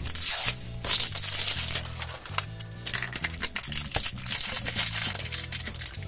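Plastic wrapping crinkling and tearing in irregular bursts as a toy blind bag is opened by hand, over steady background music.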